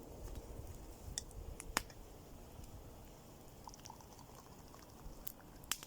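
A few scattered sharp clicks and light knocks over a faint low rumble, the loudest click about two seconds in and another pair near the end.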